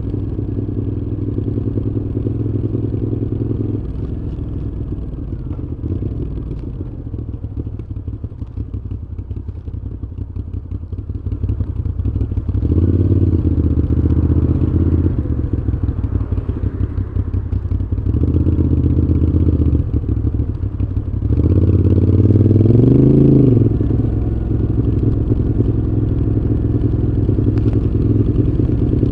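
Moto Guzzi V7's transverse V-twin through a Mistral aftermarket exhaust, heard while riding. It runs steadily, with the throttle opened several times; the engine note rises and falls most strongly a little past the middle.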